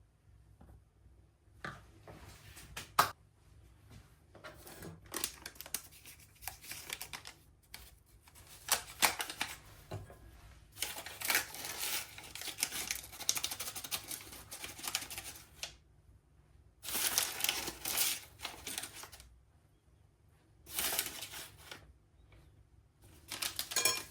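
Kitchen handling sounds during breakfast preparation: repeated bursts of rustling and scraping, a few sharp clicks or knocks, and short pauses between them.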